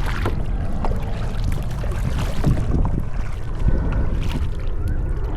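Wind rumbling on the microphone of a camera on a sit-on-top kayak, with short water splashes from paddle strokes about every second or two.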